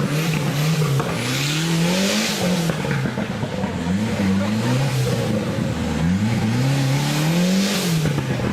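A 4x4's engine revving up and dropping back over and over, a rise or fall about every one to two seconds, as the vehicle works under load off-road.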